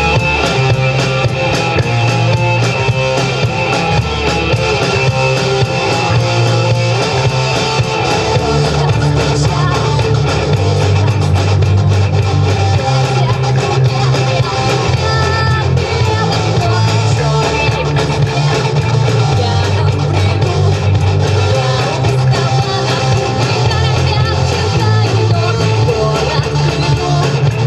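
Rock music played on guitar, bass and drums, with a bass line that steps between notes every second or two.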